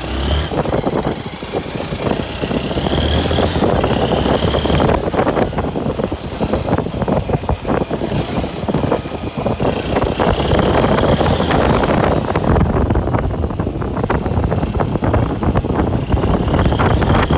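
Vehicle engine running on the move, with wind rushing and buffeting over the microphone.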